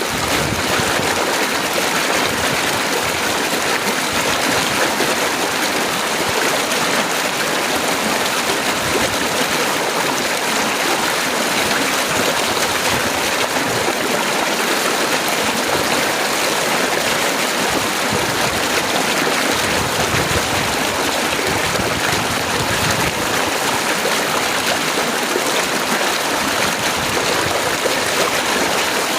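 Heavy, fast rain falling in a steady, even rush, with no thunderclaps.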